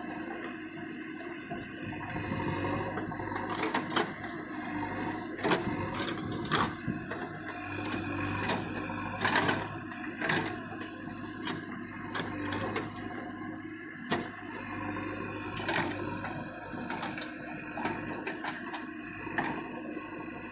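Diesel engine running steadily, with irregular clanks and knocks over it, the loudest about five and a half, nine to ten and fourteen seconds in.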